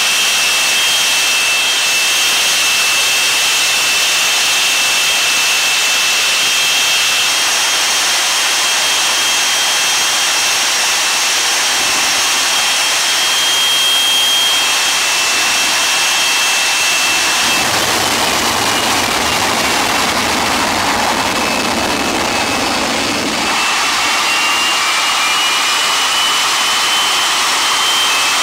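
Jet engine of a jet-powered truck running with a steady high whine. About two thirds of the way through, the whine drops in pitch and a deeper rushing sound swells for several seconds, then the whine climbs again.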